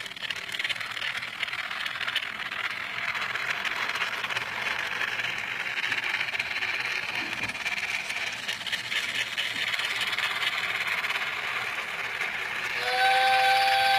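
Nano-scale micro model train running on its track: a steady high whirring rattle from its tiny motor and wheels. About a second before the end, a louder steady electronic chord-like tone, the set's train whistle sound, starts up.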